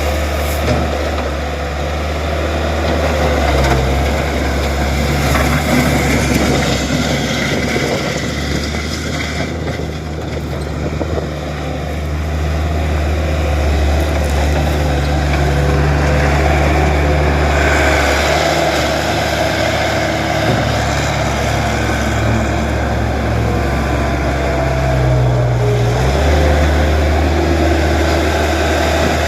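Case 75XT skid steer's diesel engine running continuously, its speed shifting up and down a few times.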